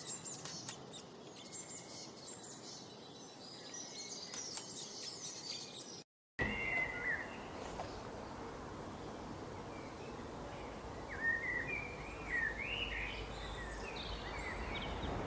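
Songbirds chirping and singing: first many rapid high-pitched chirps overlapping, then after a brief break about six seconds in, a lower warbling song in short phrases over a steady background hiss.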